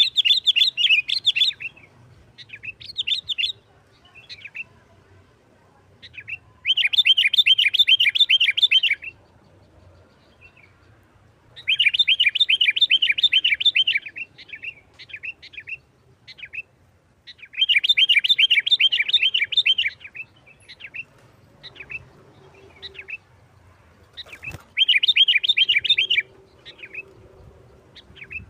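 Sooty-headed bulbul singing loud, fast chattering phrases of about two seconds each, every five or six seconds, with short scattered notes between them: the aggressive, rapid 'nggaruda' style of song that keepers use to call and provoke other bulbuls.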